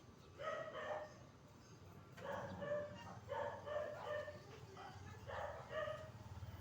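A dog barking, high-pitched barks in several short runs, over a low steady hum.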